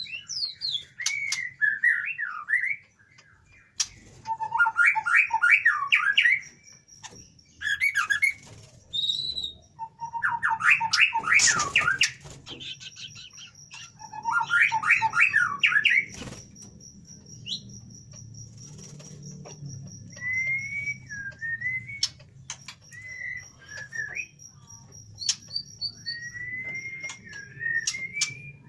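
White-rumped shama (murai batu) singing: several bursts of fast rattling trills alternating with short clear whistled notes, with sharp clicks between phrases. A thin steady high tone sounds faintly behind the song through the middle stretch.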